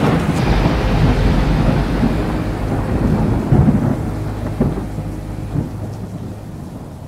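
Thunder sound effect: a long low rolling rumble with a few swells in the middle, slowly fading away.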